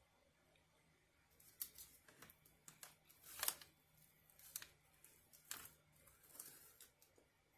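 Faint rustling and crinkling handling noises in a string of short scrapes, the loudest about three and a half seconds in.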